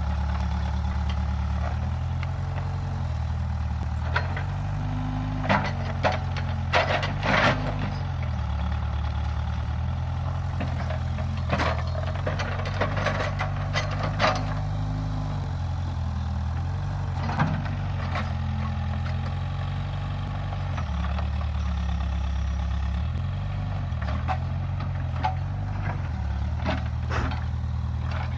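Case 580G backhoe loader's diesel engine running, its pitch stepping up and down as the load changes. Sharp knocks and cracks come in clusters over the top, several about five to eight seconds in and again around twelve to fourteen seconds.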